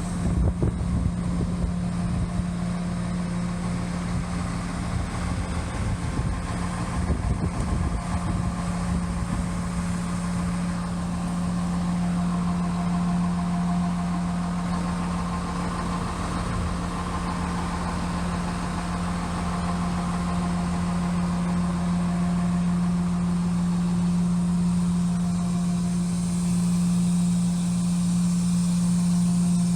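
The FLX 4510 machine's engine running at a steady idle, a constant even hum.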